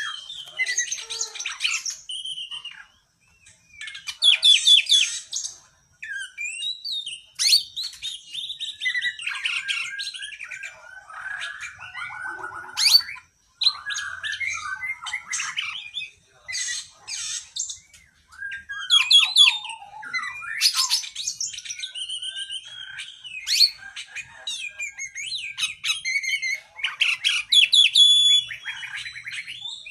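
An Oriental magpie-robin (kacer) singing a long, varied song. Rapid phrases of whistles, trills and harsh chatter follow one another, with a few brief pauses.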